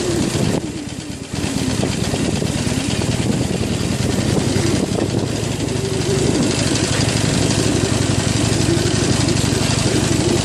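Harley-Davidson Iron 883's air-cooled V-twin engine running at low speed on a rough trail, with a steady noise of wind and tyres over it. The sound drops briefly about a second in, then comes back up and holds steady.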